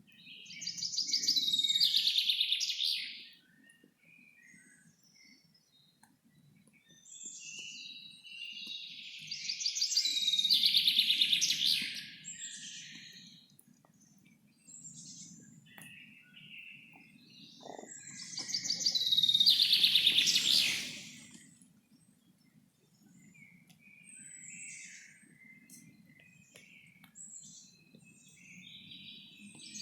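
Forest birdsong: one bird repeats a loud song phrase of two to three seconds about every nine seconds, with quieter chirps from other birds in between. A faint low rumble runs underneath.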